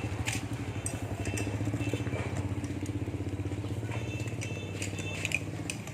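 A machine running steadily with a low, rapidly pulsing hum, with a few light clicks and clinks over it.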